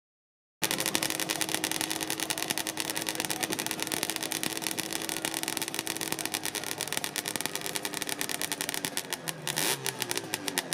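A motorcycle engine running close by, a rapid, steady pulsing of the exhaust that cuts in suddenly about half a second in; its note changes near the end.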